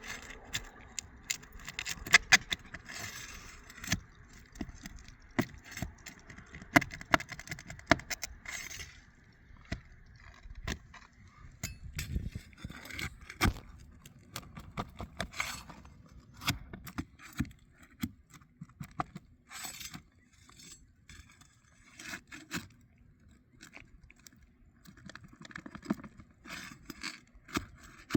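Asphalt roof shingles being pried up with a metal tool: irregular scraping and sharp clicks as the shingles and their nails are worked loose.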